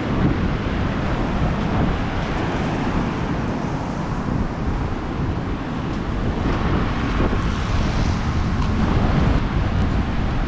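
Strong wind buffeting the microphone, with a low rumble throughout, over the hiss and wash of surf on the beach, which swells slightly from about six to nine seconds in.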